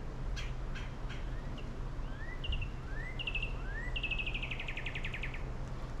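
A songbird calling: three sharp chip notes, then rising slurred whistles alternating with short trills, ending in a rapid trill about a second and a half long. A steady low hum runs underneath.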